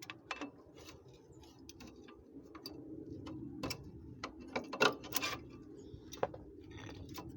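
Irregular metallic clicks and light knocks of hand tools and parts being handled at a car's front wheel hub, the loudest knock about five seconds in, over a steady low hum.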